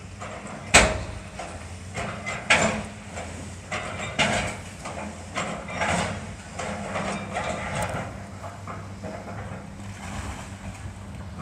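Building demolition: a sharp crash about a second in, then further irregular crashes and scraping of breaking debris, over the steady low running of heavy machinery.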